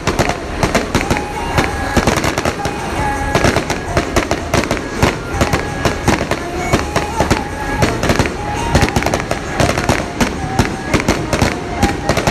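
A long string of firecrackers going off in a dense, continuous crackle of rapid bangs, with a thread of music playing beneath it.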